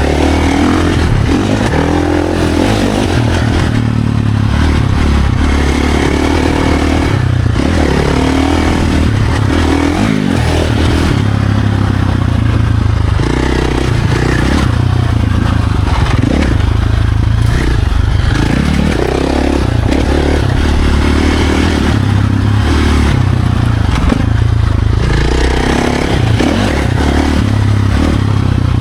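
Off-road dirt bike engine ridden hard on a trail, the throttle opening and closing every second or two as the revs rise and fall without letting up, with a rattling, scraping clatter underneath.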